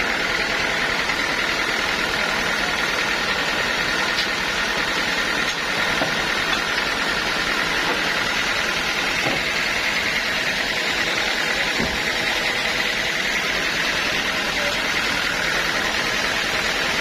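Sawmill machinery running steadily: a continuous mechanical noise with a faint high whine held throughout.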